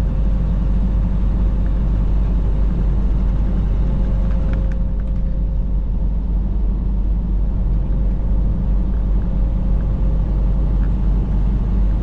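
Semi-truck driving on the highway, a steady low rumble of engine and road noise with a faint steady hum over it.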